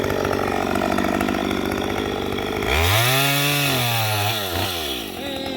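Two-stroke chainsaw idling, then throttled up about halfway through: the engine pitch rises sharply, holds at high revs for about a second and a half, and drops back.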